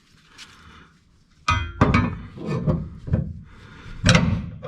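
Irregular knocking and clattering of hard objects being handled, starting about a second and a half in and continuing as a busy run of knocks.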